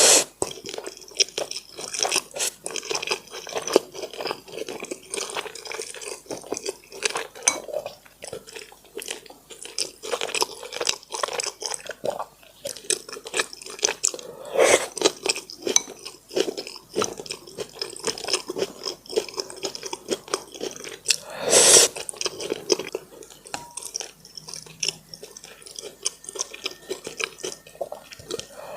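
Close-miked eating of braised pork: steady chewing and mouth sounds mixed with frequent small clicks of utensils on dishes. Two louder clinks come about 15 and 22 seconds in.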